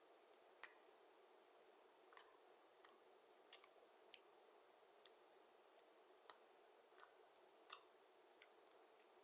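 Faint, irregular clicks and smacks of someone chewing a burger with his mouth close to the microphone, about a dozen in all, over a low steady hiss.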